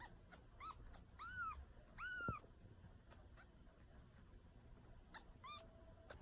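Newborn kitten, about a week old, mewing: a few short, high-pitched mews, the two longest and loudest rising and falling in pitch about one and two seconds in, then two more brief mews near the end.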